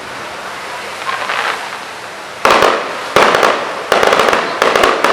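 Fireworks display: a low crackle of burning effects, then from about two and a half seconds in a quick run of loud shell bursts, roughly one bang every 0.7 seconds, each followed by crackling.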